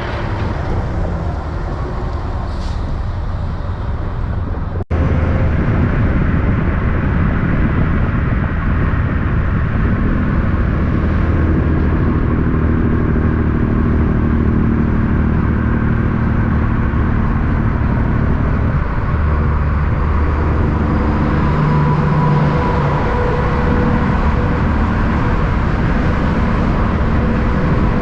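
Road vehicle engines running, with heavy trucks among the traffic. There is a brief dropout about five seconds in, after which the engine sound is louder and steady, its pitch shifting slowly.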